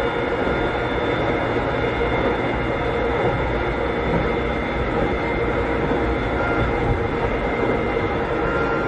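Running sound inside a Keikyu old 600-series electric car (car 605, Toyo Denki electrical equipment) at steady speed: an even rumble from the wheels and track, with steady whining tones from the running gear over it.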